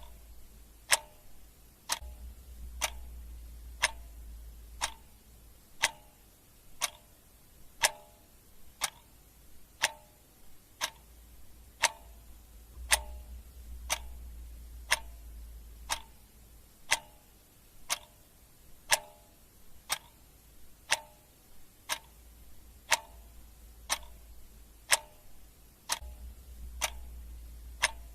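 Clock ticking steadily at one tick a second, the alternate ticks sounding slightly different in a tick-tock pattern. A faint low hum sits underneath.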